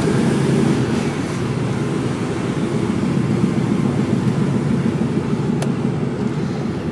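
Mercedes-Benz Actros truck's diesel engine running under way, heard from inside the cab as a steady low drone.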